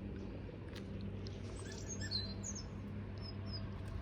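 Small songbirds in the bushes giving scattered short, high chirps and call notes, over a steady low hum.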